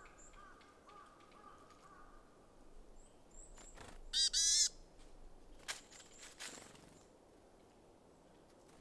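Small wild birds calling at a feeder: thin, high, short chirps here and there, with a faint held call in the first two seconds. About four seconds in, a loud, harsh call comes in two quick bursts of repeated notes. A couple of sharp knocks follow.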